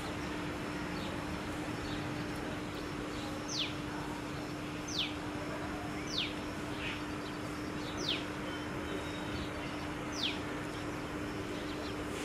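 A bird repeating a short, sharp down-slurred whistle five times at uneven gaps of one to two seconds, with fainter chirps, over a steady low hum and background noise.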